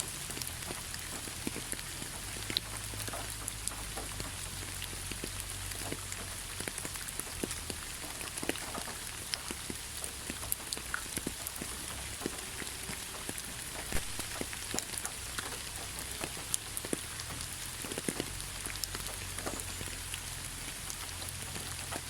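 Heavy rain falling steadily: a constant hiss peppered with many sharp individual drop impacts, over a low rumble.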